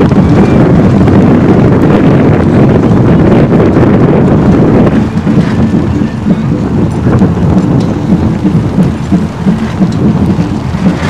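Rainfall with wind buffeting the microphone, a loud, continuous low rumble that eases slightly about five seconds in.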